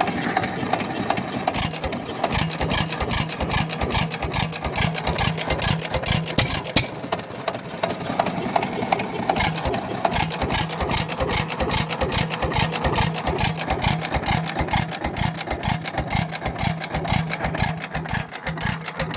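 A 6 hp Economy hit-and-miss engine, a single-cylinder antique stationary engine, running steadily with an even, rapid clatter of strokes.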